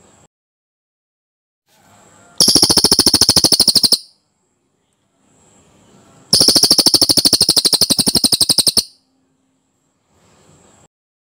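Cililin song: two rapid, rattling trills of about fifteen notes a second. The first lasts about a second and a half; the second, a few seconds later, lasts about two and a half seconds.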